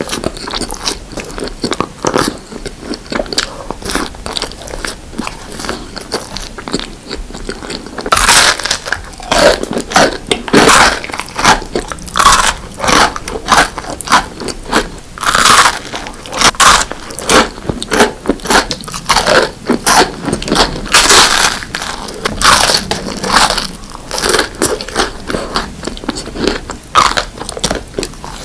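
Close-miked eating: a person biting into and chewing crunchy sweet food, with many sharp crunches. Soft chewing clicks for the first several seconds, then loud crunching bites from about eight seconds in.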